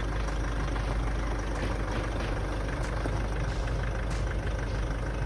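Steady low engine rumble, like a vehicle idling, with an even hiss above it and a few faint ticks.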